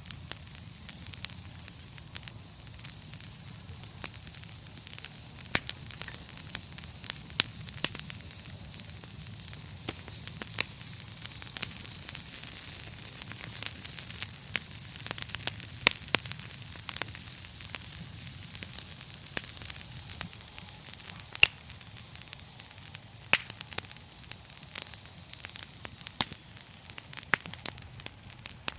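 Wood fire crackling in a fireplace: irregular sharp pops and snaps over a steady hiss and low rumble of the flames.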